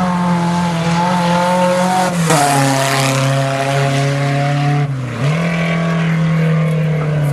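Dirt-track race car engine held at high revs. The pitch drops sharply about two seconds in, with a brief rush of hiss, and stays lower. Just before five seconds it dips again, then rises back and holds.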